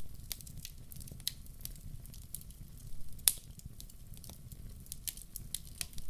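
Wood fire in a fireplace crackling, with irregular sharp pops of burning logs over a low steady rumble; the loudest pop comes a little after three seconds in.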